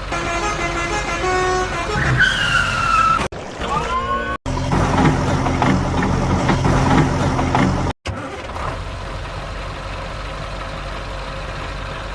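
A short run of stepped tones and a falling horn-like toot, then a vehicle engine running steadily. The segments are spliced together with abrupt cuts.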